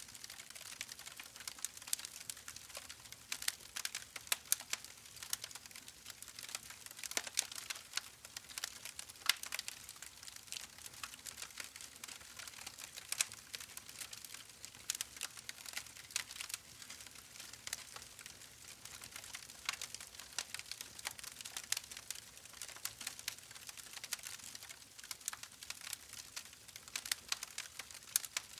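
Wood fire crackling in a fireplace: a continuous run of irregular sharp pops and snaps over a soft hiss.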